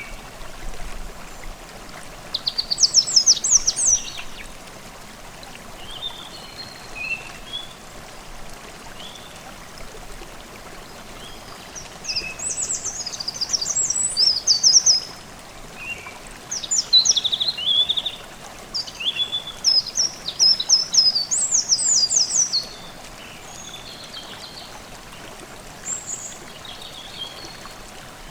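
Forest stream babbling steadily while songbirds sing in bursts of rapid high notes, the longest run of song between about 12 and 22 seconds in.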